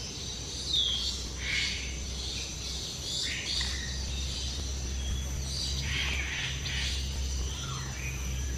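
Mixed birds calling in an aviary: a curved whistled sweep about a second in, then overlapping chirps and harsher squawks, over a steady high thin whine.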